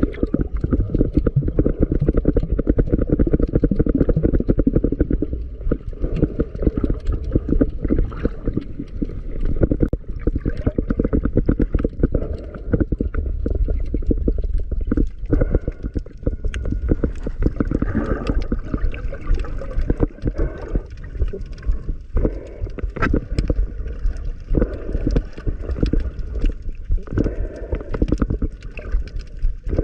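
Muffled water sloshing and gurgling around an underwater camera, with a dense crackle of small clicks throughout.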